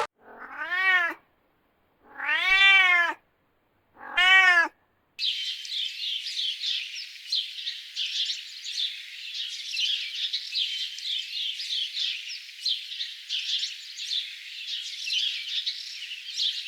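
A domestic cat meowing three times, each meow rising then falling in pitch. It is followed by a long stretch of rapid, dense, high-pitched chirping.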